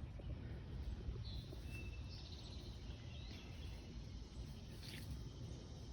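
Small birds chirping faintly in a few short, high notes and trills over a low, steady outdoor rumble.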